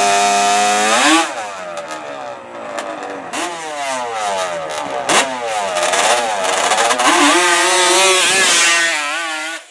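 Racing ATV engines revving hard, the pitch jumping up about a second in, then climbing and falling repeatedly through the run, with a sharp pitch sweep about halfway through. The sound cuts off just before the end.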